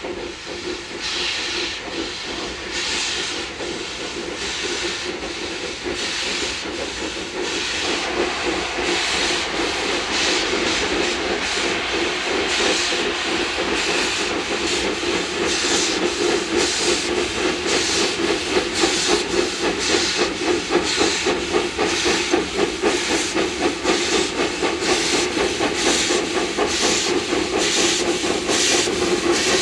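Two narrow-gauge Garratt articulated steam locomotives working under steam, with hissing exhaust beats. The beats start slowly and gradually quicken and grow louder as the double-headed train starts away after the regulator is eased open.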